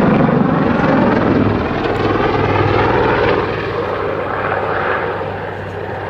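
Westland Lynx helicopter's rotor and turbine noise as it flies a backflip manoeuvre, with a steady low drone. It is loudest at the start and slowly fades toward the end.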